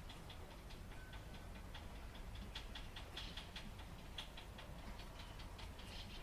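Rain dripping and pattering: irregular sharp ticks of drops hitting a hard surface, several a second, over a steady low rumble.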